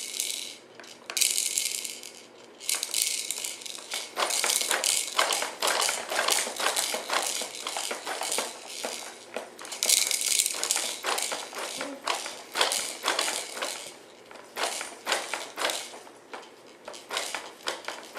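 Fisher-Price Rainforest Jumperoo baby bouncer rattling and clicking as the baby bounces and plays with its toys: quick, irregular taps and rattles, with several brief shaker-like bursts.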